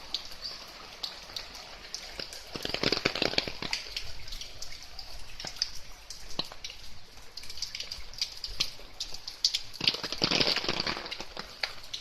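Rain falling, with a steady hiss and many separate drops ticking, swelling louder twice, about three seconds in and again near ten seconds.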